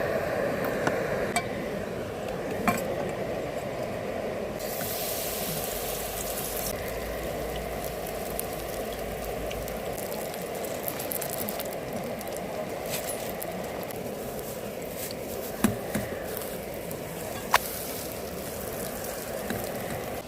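Food sizzling steadily in a pan, with scattered sharp clinks of a utensil against it and a brief louder hiss a few seconds in.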